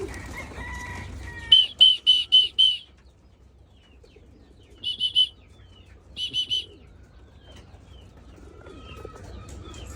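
Young racing pigeons in a loft, with three groups of short, sharp, high chirps: five in quick succession, then three, then three. Faint wing flapping and rustling lie underneath.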